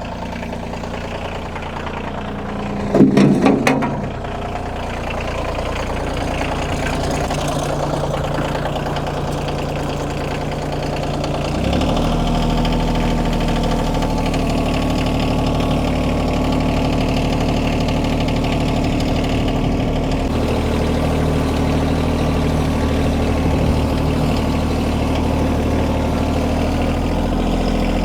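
Kioti compact tractor's diesel engine running steadily, with a short clattering burst about three seconds in. About twelve seconds in the engine grows louder and deeper, as if throttled up, and holds there.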